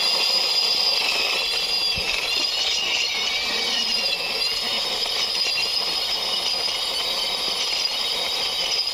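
Steady mechanical whirring with a high whine that wavers slightly in pitch, over a noisy rattling hiss.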